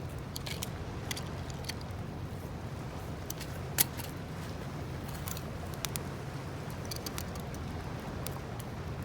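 Wood campfire of thin split firewood crackling, with scattered sharp pops and one loud pop about four seconds in, over a steady low rumble.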